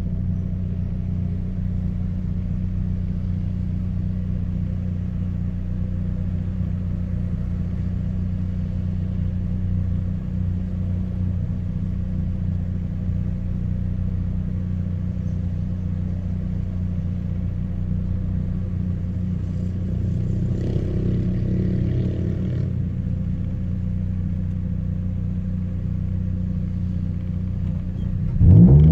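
Chevrolet Celta 1.0 four-cylinder engine, naturally aspirated and running on ethanol, through a 4-into-1 header and a two-inch straight exhaust with no mufflers. It runs at a steady speed with an even rumble, then revs up sharply near the end.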